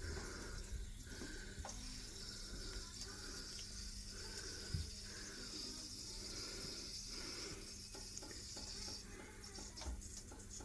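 Faint steady hiss of water flowing in an LG top-loading washing machine with the supply turned on, stopping about nine seconds in. The machine has been making this hissing sound for two weeks alongside a bad leak.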